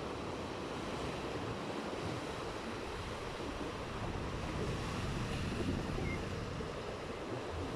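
Sea waves washing onto the shore, with wind rumbling on the microphone; the surf swells a little about halfway through.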